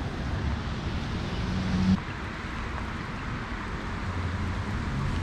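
Steady hiss of rain and flowing river water, with a low rumble of wind on the microphone. About two seconds in, a spinning rod is cast: a brief swish swells and cuts off sharply.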